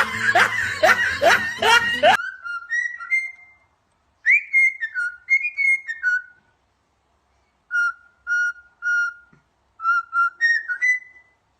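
For about the first two seconds there is a loud, busy sound with quick upward slides. Then come several short phrases of clear whistled notes, some repeated on one pitch and some stepping upward, with short silences between the phrases.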